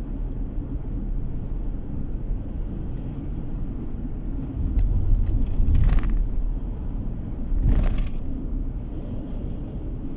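Car driving along a road: a steady low rumble of tyre and engine noise, with two short louder rushes about six and eight seconds in.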